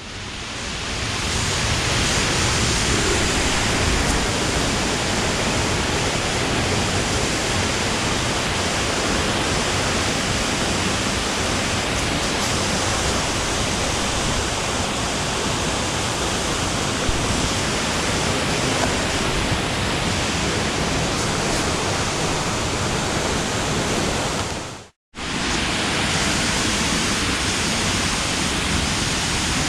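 Steady rush of falling water from a waterfall. It breaks off for a moment about 25 seconds in, then comes back unchanged.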